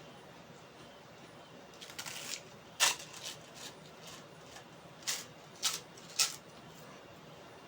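Eating sounds close to the microphone: about six short, sharp clicks and crunches, spread over a few seconds, the loudest about three seconds in.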